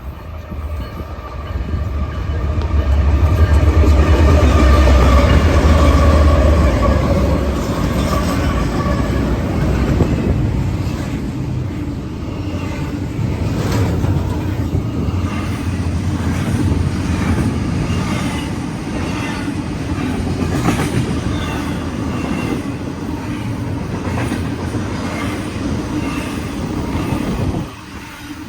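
BNSF diesel freight train passing close by: a loud, deep locomotive rumble swells in the first few seconds and fades, then the intermodal container cars roll past with a steady rumble and repeated wheel clicks over the rail joints.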